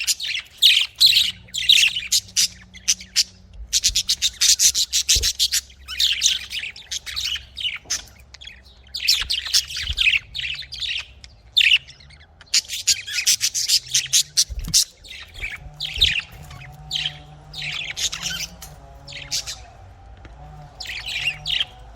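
Budgerigars chattering and chirping in quick, high-pitched runs broken by short pauses.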